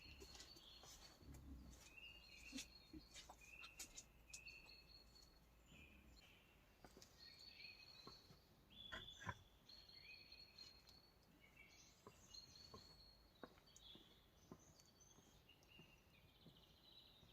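Faint birdsong in a forest: small birds giving short repeated chirps and whistles. Scattered soft clicks and snaps come in between, the sharpest about nine seconds in.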